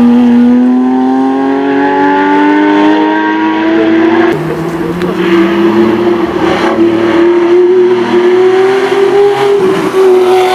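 Porsche race car engine accelerating, its pitch rising steadily for about four seconds. Then it shifts abruptly and holds high revs that rise and dip slightly.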